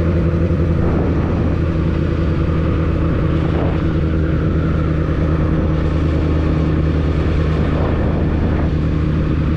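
Honda CBR1000RR inline-four engine running at a steady engine speed, its pitch holding level throughout.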